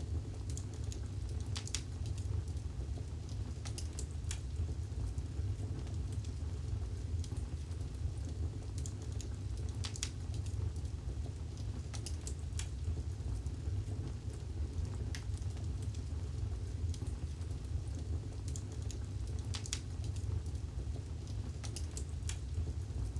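Wood fire burning in a fireplace: a steady low rumble of the flames with scattered sharp crackles and pops, one or two a second.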